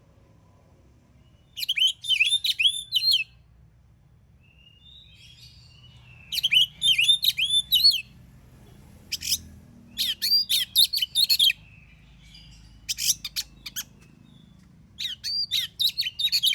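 Oriental magpie-robin (kacer) singing: about six bursts of rapid, high whistled phrases, each a second or two long, with short pauses between them.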